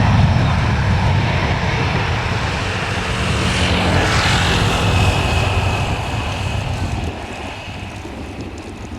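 Airliner engines passing close by: a heavy rumble and rush that peaks about halfway, where a high engine whine comes in, then fades away over the last couple of seconds.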